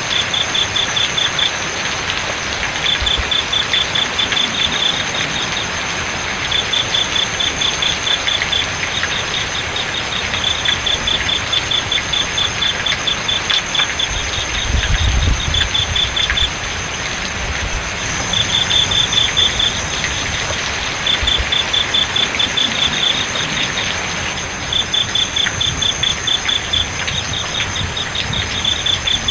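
Crickets chirping in rapid pulsed trains lasting a second or two, with short gaps between, over a continuous high steady insect trill. Beneath them, the even hiss of flowing water.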